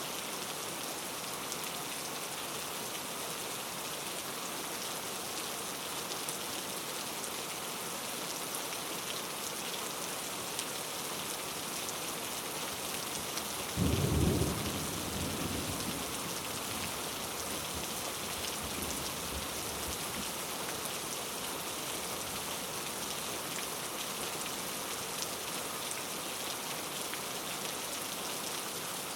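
Steady rain falling, with a sudden clap of thunder about halfway through that rumbles off over the next few seconds.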